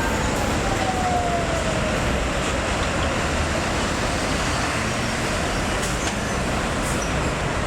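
Steady road traffic noise, with a whine that falls in pitch over the first couple of seconds.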